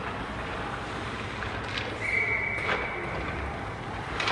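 Practice-floor activity: scattered knocks and thuds, with one brief high steady squeak or whistle tone about two seconds in.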